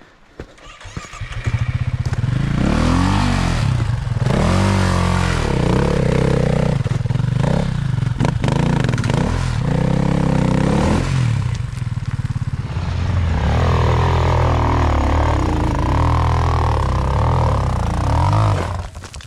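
Dirt bike engine revving hard in repeated bursts, the pitch rising and falling as the throttle is worked over rough ground, with clattering underneath. It comes in about a second and a half in and drops away shortly before the end.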